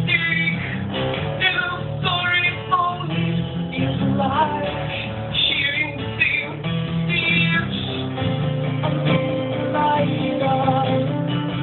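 Live band music with guitar to the fore, strummed chords and melodic lines over a steady low end, in a passage with no words sung.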